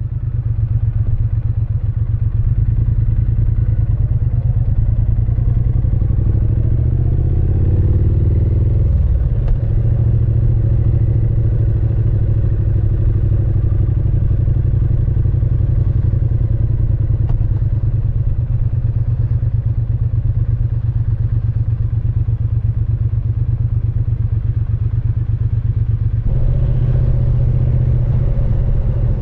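Triumph Speed Twin 900 parallel-twin engine and exhaust under way, its pitch rising under acceleration for several seconds. The pitch drops at a gear change about nine seconds in, then the engine runs steadily. The note changes again a few seconds before the end.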